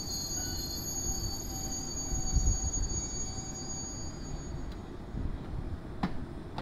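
Departing electric train rumbling as it moves through the station, with a high-pitched wheel squeal that fades out about two-thirds of the way through.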